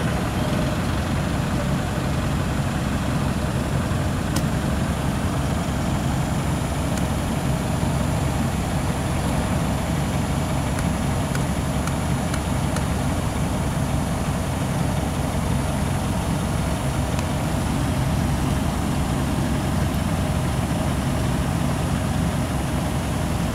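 Steady low engine rumble heard from inside a car cabin, idling and creeping in a traffic jam, with the engines of the surrounding cars and a bus alongside.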